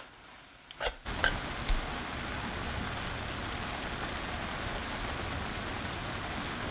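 Chopped cabbage sizzling steadily in a skillet as it cooks down, giving off its own liquid. A couple of short clicks from the spoon in the pan come first, and the even sizzle starts about a second in.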